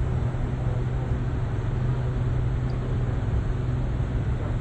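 Steady low drone of cruise ship machinery, a constant deep hum with a wash of noise over it and no breaks.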